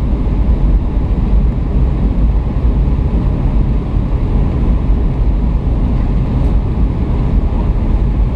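Steady, loud low rumble of a Boeing 757 in flight, engine and airflow noise as heard inside the passenger cabin.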